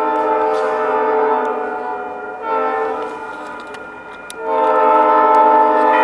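Diesel locomotive air horn sounding a multi-note chord in a long blast, then a short blast about two and a half seconds in, then another long blast from about four and a half seconds in. Together with the long blast just before, this is the long-long-short-long warning sounded for a grade crossing. It is the horn of an Alco road-switcher.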